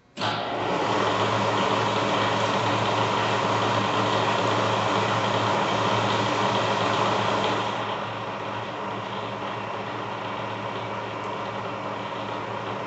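Bridgeport Series I vertical mill's 1.5 HP spindle motor and head running, switched on suddenly with a steady hum and whine. About eight seconds in it drops to a quieter, less hissy running level.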